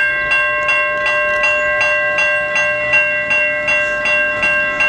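Railroad crossing electronic bells (Siemens and General Signals Type 3 e-bells) ringing together in an even, rapid beat of about two to three strokes a second, with a steady ringing tone underneath.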